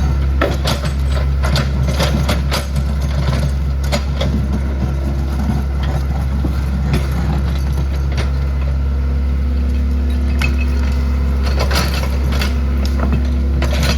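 Excavator engine running steadily, with repeated short cracks and crunches of debris breaking during demolition, a dense cluster of them near the end.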